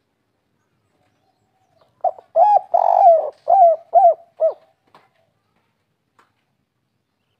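Spotted dove (tekukur) singing one 'kuk 3' cooing phrase of about six short, low coos in quick succession, starting about two seconds in and lasting about two and a half seconds.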